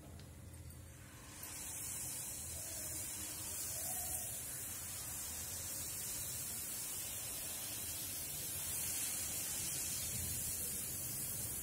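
Jalebi batter frying in hot ghee: a steady sizzling hiss that starts about a second and a half in, as the batter is piped into the pan, and carries on evenly.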